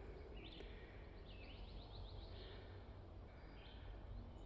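Faint calls of wild birds: a short chirping phrase near the start, a longer run of rapid repeated notes in the middle and another brief phrase near the end, over a steady low background rumble.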